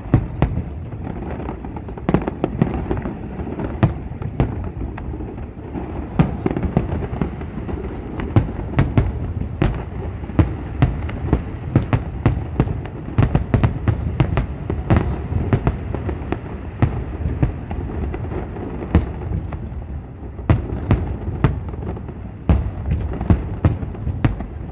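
Aerial firework shells bursting in a continuous barrage: many sharp bangs over a steady low rumble of booms. The bangs thin out for a few seconds past the middle, then come thick again.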